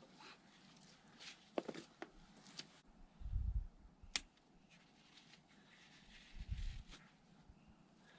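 Faint work noise of hands handling hydraulic hoses and fittings: scattered light clicks and taps, with two brief low thumps, about three seconds in and again near six and a half seconds.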